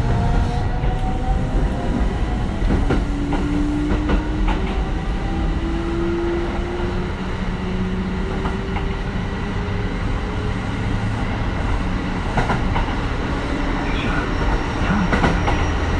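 Kintetsu 1420 series train's Mitsubishi GTO-VVVF inverter traction motors whining in rising tones that step down and climb again as the train accelerates, over a steady rumble of wheels on rail with scattered clicks from rail joints.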